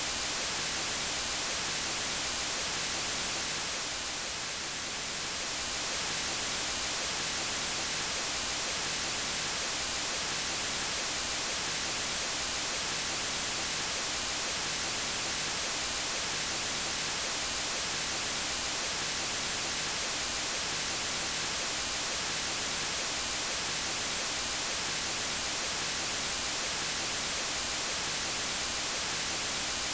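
Steady white noise: an even hiss across all pitches, brightest in the highest frequencies, dipping slightly in level about four seconds in.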